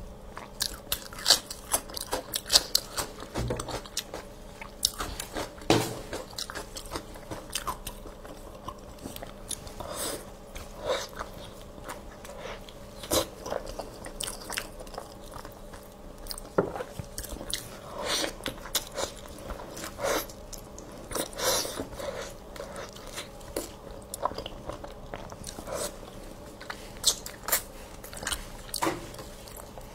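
Close-miked eating of red-braised pig tails: bites and chewing with irregular crunchy clicks, several a second, loudest in a few clusters.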